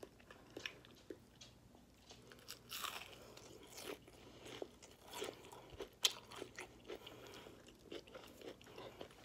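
A person chewing crispy fried hash brown, with a scatter of small, irregular crunches and mouth sounds.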